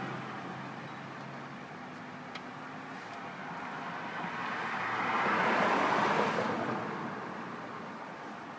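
Road traffic noise, with a car passing by that rises to its loudest about five to six seconds in and then fades away.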